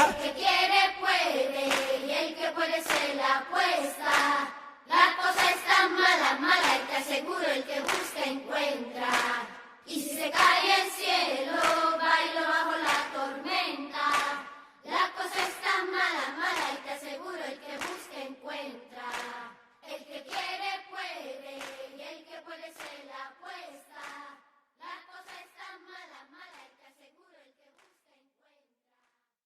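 Group of voices singing a cappella over rhythmic handclaps, in phrases of about five seconds, with no band behind them. It fades away and stops about 27 seconds in.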